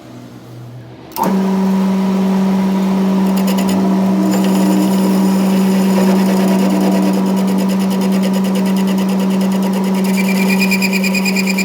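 A machine motor switches on abruptly about a second in and runs with a steady hum. From about ten seconds a fast, even ticking rides on top of it.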